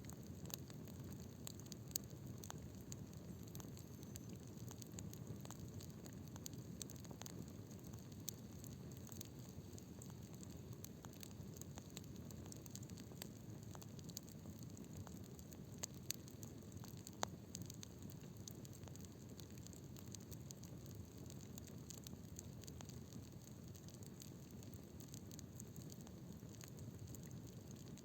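Wood bonfire burning with a low steady rush and scattered crackles, plus a few sharper pops.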